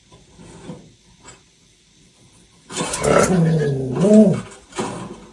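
A pet animal's loud, drawn-out vocal call, growling or yowling, starting about three seconds in and lasting about a second and a half. Its pitch dips and then rises and falls again.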